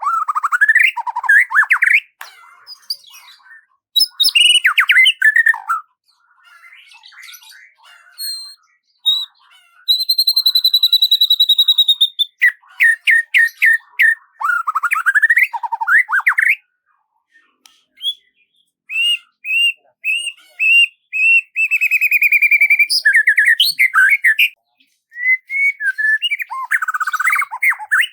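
Songbird singing a series of varied phrases separated by short pauses: quick trills, sweeping notes, runs of rapidly repeated notes, and a long steady whistle about ten seconds in.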